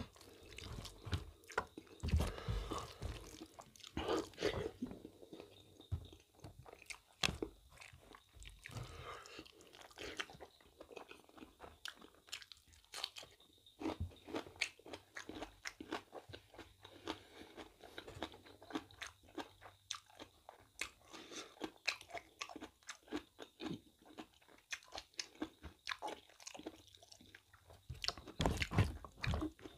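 Close-up chewing and mouth sounds of someone eating rice and mutton innards curry by hand, with fingers working the rice on a banana leaf: quiet, scattered smacks and small clicks, busier near the end.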